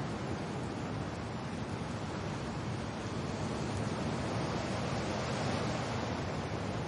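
Wind and rain as a dense, steady rush of noise, heaviest in the low end, swelling slightly past the middle.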